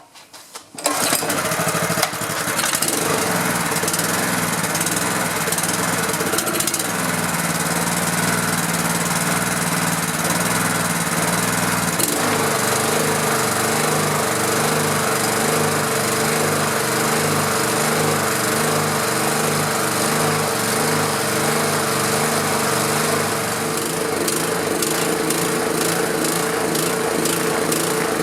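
Honda GX200 6.5 hp single-cylinder engine on a pressure washer catching about a second in and running with the choke on, its speed changing around twelve seconds in to an uneven, pulsing beat. It does not sound good: the engine is not getting enough fuel, which the owner traces to a fuel shutoff valve gasket plugged by old fuel.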